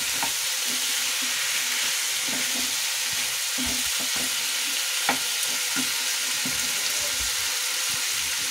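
Baby potatoes in masala sizzling in a nonstick kadai while a wooden spatula stirs them, scraping and tapping against the pan. There is a steady frying hiss, with one sharper knock of the spatula about five seconds in.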